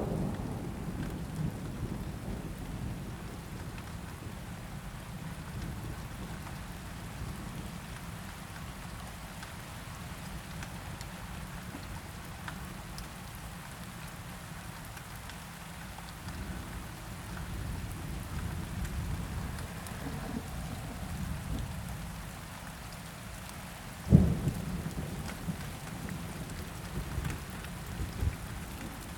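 Steady rain with rolling thunder, the rumble strongest at the start. A sudden, louder thunder crack comes near the end.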